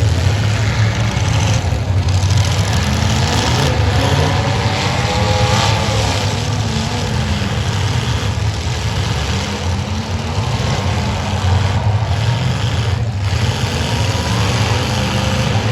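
Several demolition derby cars' engines running loudly at once, their pitch rising and falling as they rev.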